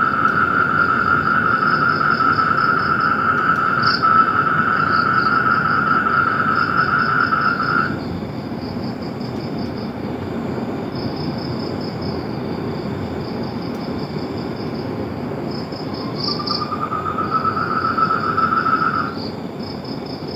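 Chorus of calling animals: a long steady trill that stops about eight seconds in and starts again near the end, over a continuous fast-pulsing chirping higher up.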